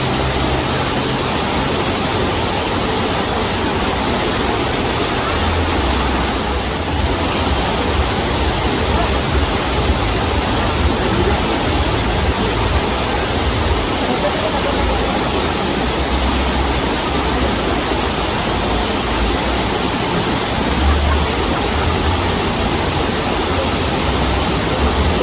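Waterfall: a loud, steady rush of falling water, an even roar of noise with no breaks.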